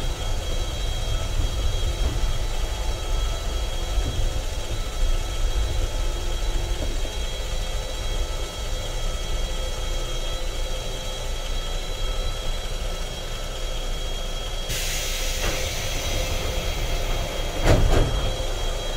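JR 415 series electric multiple unit braking slowly along a station platform, heard from inside the car: low wheel rumble easing off under a steady high whine. About fifteen seconds in a hiss starts, and near the end a short thump as the train comes to a stop.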